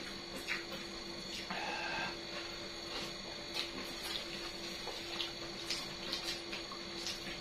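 Mouth sounds of eating chicken feet in chilli sauce: irregular short, wet chewing clicks and lip smacks over a steady low hum.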